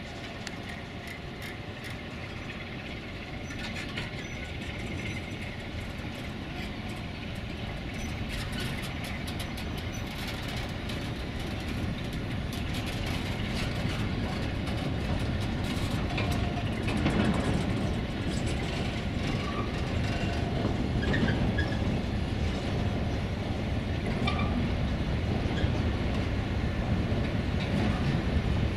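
Covered freight wagons of a passing freight train rolling by on steel rails: a continuous rumble of wheels on rail that grows steadily louder, with many sharp clicks and clatters from the wheels and couplings.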